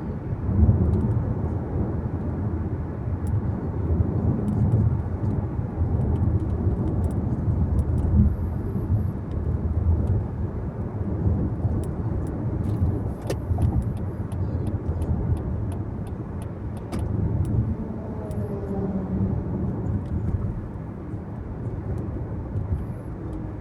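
Steady low rumble of a car being driven, road and engine noise heard from inside the cabin, with a scatter of faint clicks midway through.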